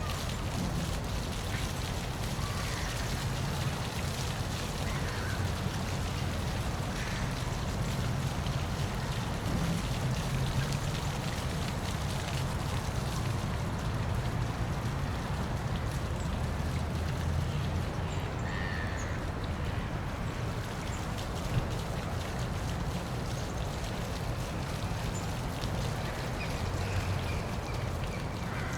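Park waterfall rushing and splashing steadily, a constant wash of water noise with a heavy low rumble. A few faint short chirps sound briefly now and then.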